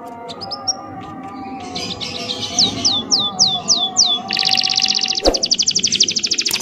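Bird song: a run of quick, high, downward-sliding notes, then a fast high trill from a little past the middle. Under it run steady low tones, and there is a single knock a little after five seconds.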